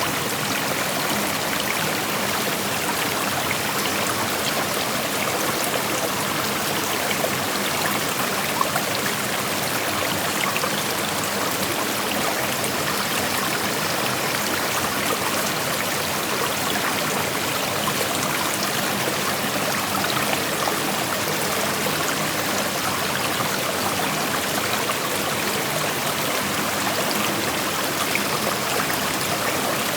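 Shallow creek flowing over rocks: a steady rushing of water with small trickles and splashes.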